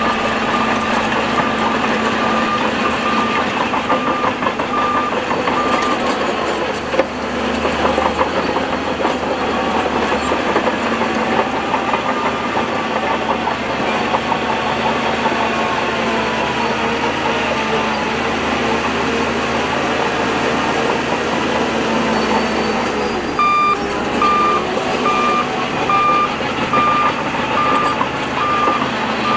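Heavy earthmoving machinery running steadily under load. A reverse alarm beeps about once a second for the first six seconds, stops, and starts again about 23 seconds in.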